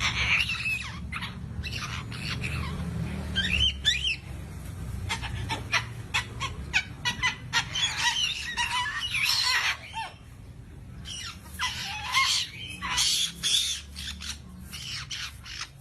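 A bird calling with many short squawks and chirps that bend up and down in pitch, in irregular runs with brief pauses, over a low steady hum.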